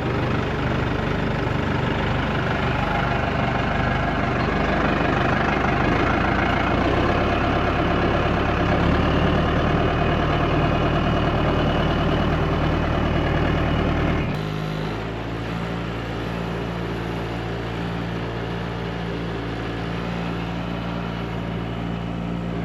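A farm vehicle's engine running steadily, louder at first, then dropping about two-thirds of the way through to a quieter, even idle.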